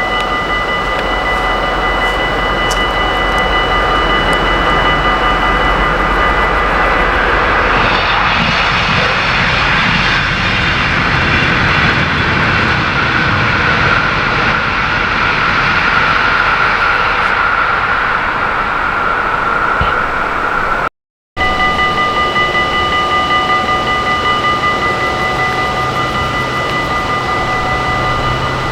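A train passing: its rushing noise swells for about ten seconds and then fades, over several steady high ringing tones that carry on after a cut.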